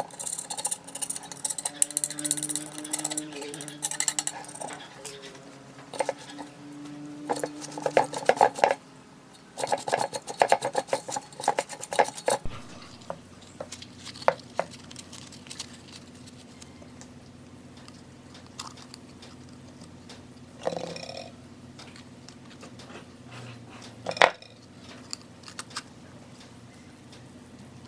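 Metal parts and hand tools clinking and tapping, as when a speaker cabinet is being taken apart. Quick clicks and knocks come in a dense run through the first half, then only now and then over a faint steady hum.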